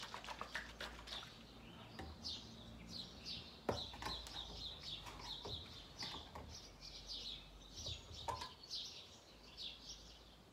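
Small birds chirping over and over in quick, short notes, with two faint knocks a few seconds apart.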